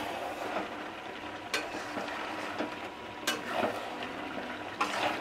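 Mutton curry sizzling in a metal kadai as a spatula stirs it, with three sharp knocks and scrapes of the spatula against the pan about a second and a half apart. The frying hiss comes from the meat cooking in the oil it has started to release, with little water left.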